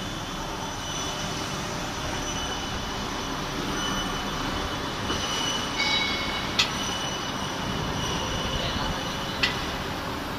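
Steady industrial machine noise with high, steady squealing tones over it, and two sharp metallic clicks in the second half.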